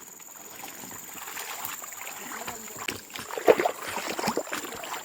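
River water sloshing and splashing in irregular small splashes, growing busier about halfway through, with faint voices in the background.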